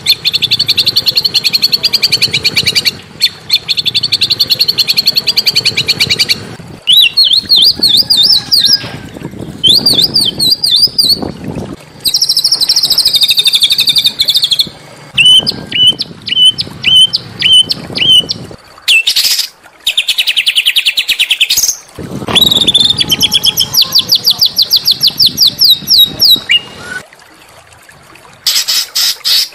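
Small songbird singing in fast, high trills and series of sharp, rapidly repeated chirps, in phrases of a few seconds separated by brief pauses.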